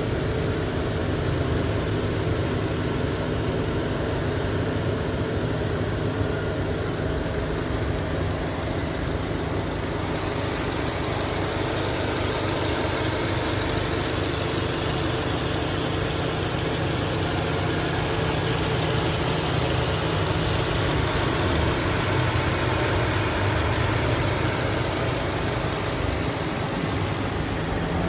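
Turbocharged Suzuki Jimny engine idling steadily.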